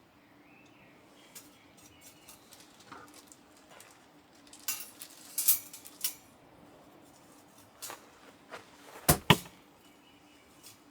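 Light clatter and clinks of objects being handled, with a cluster of sharp clicks about five seconds in and two loud knocks about nine seconds in.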